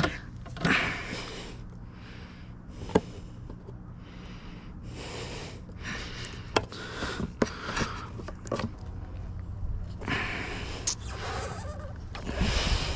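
Hands working on a pit bike with tools and parts: scattered sharp clicks and short rustling, hissing noises.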